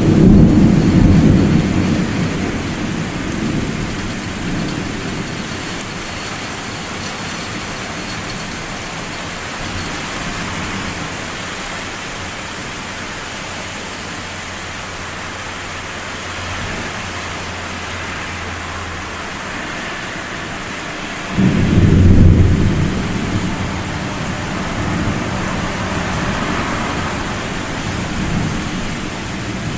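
Thunder over steady rain. A loud rolling rumble at the start fades away over several seconds. About two-thirds of the way through comes a sudden loud thunderclap, and it rolls on in further rumbles to the end.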